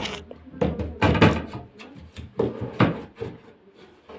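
Knocking and clattering of hard objects being handled during installation work, with a run of sharp knocks over the first three seconds that then thins out.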